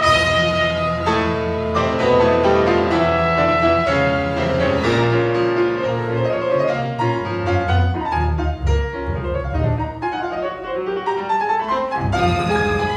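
Live classical music for piano and chamber string orchestra: piano with violins and cellos playing together.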